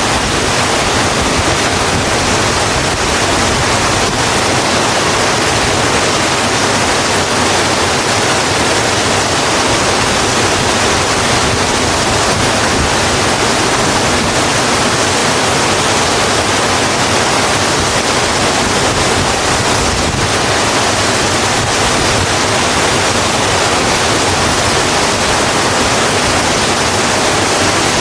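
Steady heavy rain, an even hiss with no distinct drops or other events.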